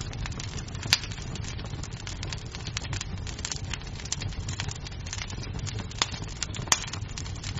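Wood fire crackling in a fireplace: a dense run of small crackles over a low rumble, with three sharper pops, one about a second in and two near the end.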